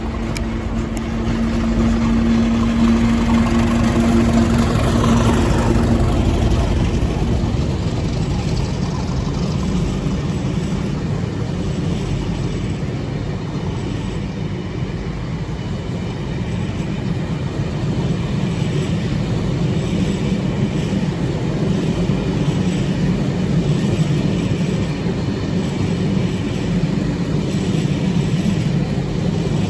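Train running past, a continuous low rumble, with a steady held tone and rising noise over the first six or seven seconds.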